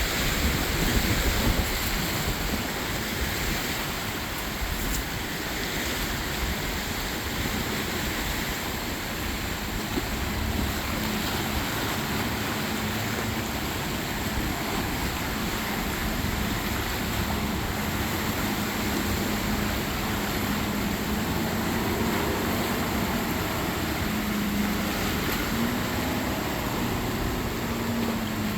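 Motorboat engines running in choppy canal water, with water washing and wind buffeting the microphone. A steady engine hum comes in about halfway through and wavers slightly near the end.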